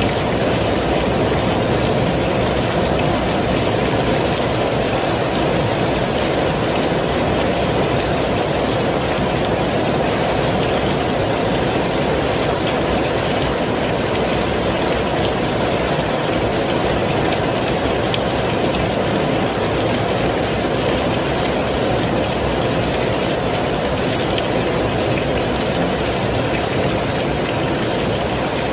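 Heavy rain falling steadily: a dense, even rush of noise, heaviest low in pitch, with no distinct single drops or breaks.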